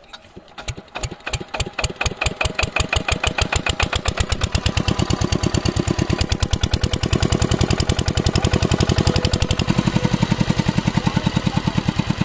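Diesel water pump set engine starting: slow separate firing knocks right at the start that speed up over the first few seconds, then settle into a steady, fast knocking run.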